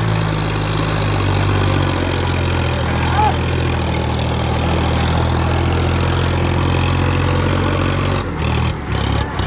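Tractor engine running steadily at a constant speed; its note turns uneven for the last second or so.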